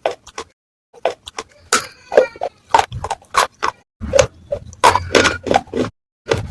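Baked clay from a matka pot crunching and cracking in a quick run of sharp, separate crunches, with two brief silent breaks.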